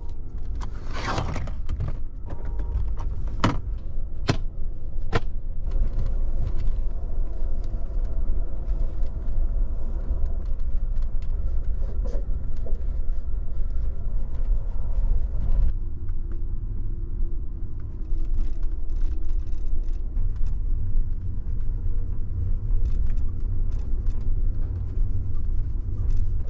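Steady low rumble of a passenger train, heard inside a sleeper-car room. In the first few seconds, a handful of sharp clicks and clatter come from the fold-down table being opened and latched.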